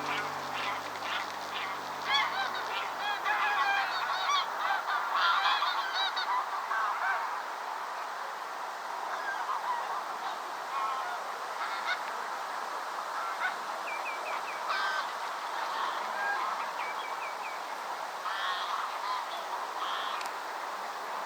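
A flock of waterbirds calling, many short calls overlapping. The calling is densest for the first several seconds, then thins to scattered calls.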